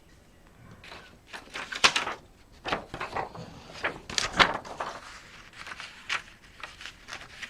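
Hard plastic laptop parts being handled and set down on a bench: a string of irregular clicks and knocks, the loudest about two seconds and four seconds in.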